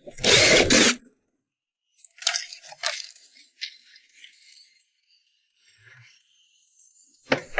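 Workshop sounds of a car being serviced: a loud burst under a second long at the start, then scattered light clicks, clinks and rustling, and more loud short bursts near the end.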